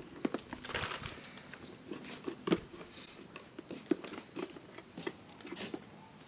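Irregular soft clicks and rustles of hands working a shortening-and-birdseed bird feeder, over a steady high insect trill.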